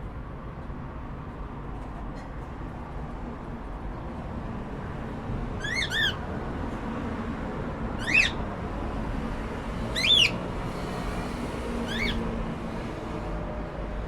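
Cockatiel giving short rising chirp calls, about one every two seconds from about six seconds in, the first a quick double chirp.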